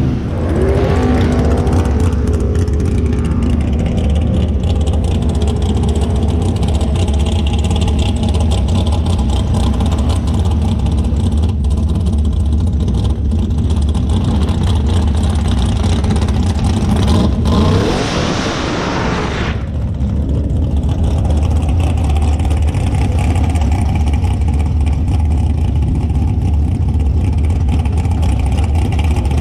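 Drag-race car engine running loudly throughout, with a harsher, brighter burst about eighteen seconds in that lasts a couple of seconds and cuts off suddenly.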